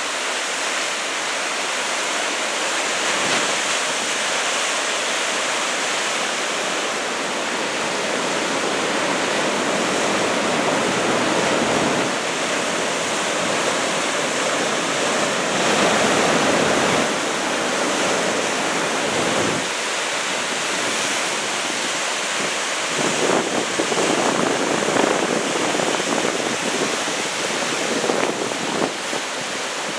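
Heavy ocean surf from a typhoon swell of about 2 m, a continuous loud wash of breaking waves that swells louder several times, most of all in the second half.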